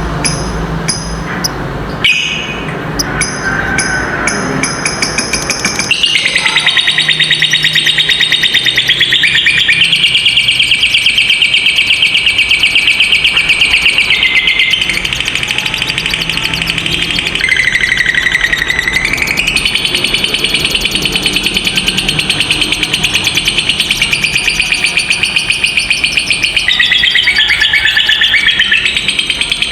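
Lovebird singing a long 'ngekek' trill: a rapid, unbroken, buzzy chatter that sets in about six seconds in and runs on with small shifts in pitch, dipping lower once near the middle. Shorter chirping phrases come before it.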